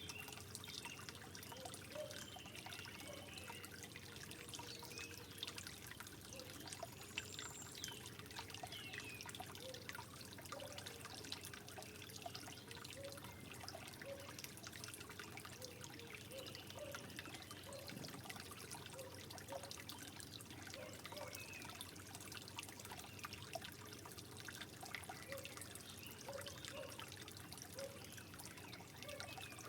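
Water trickling gently and steadily, with many small drips and bubbling plinks.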